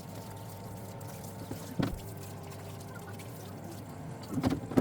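Parts washer running with its pump humming steadily and cleaning fluid pouring and trickling over an engine crankcase half. A couple of short knocks sound about two seconds in and again near the end, the last the loudest.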